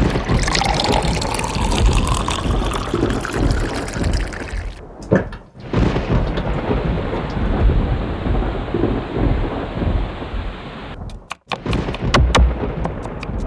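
Thunderstorm: steady heavy rain with low thunder rumbling. The sound cuts out abruptly a couple of times, as if separate recordings were spliced together. Near the end there is a run of sharp ticks, like drops striking a surface.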